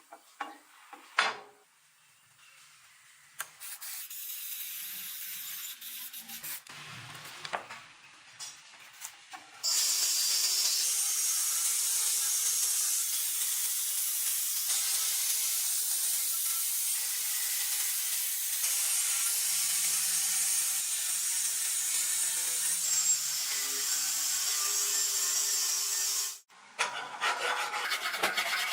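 Steady, gritty hiss of metal being abraded by a power tool. It starts abruptly about ten seconds in, after a quieter stretch of light scraping and a few sharp clicks, and breaks off suddenly near the end.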